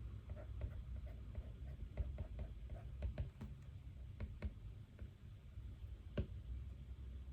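Light, irregular clicks and taps of small objects being handled at a study desk, with a sharper tap about two seconds in and another about six seconds in, over a steady low hum.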